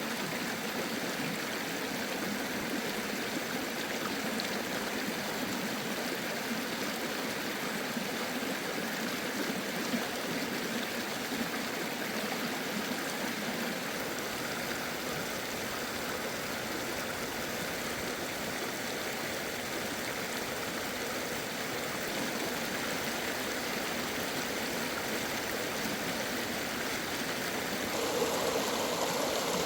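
Steady rush of a flowing stream, even and unbroken, swelling slightly near the end.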